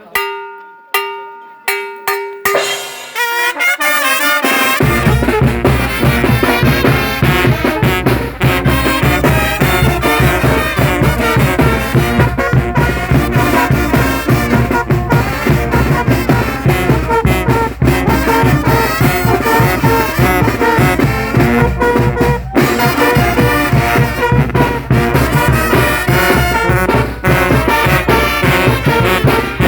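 A Guerrero-style Mexican banda (brass band) playing: trumpets and trombones over drums with a steady beat. It opens with a few sharp hits and a held note, and the full band comes in about four seconds in.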